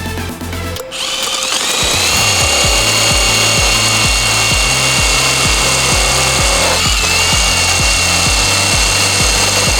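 Electric drill spinning a Mothers PowerBall polishing ball against an aluminum coolant overflow tank. It starts about a second in, rises to speed, then runs as a steady whine. Background music with a steady beat plays underneath.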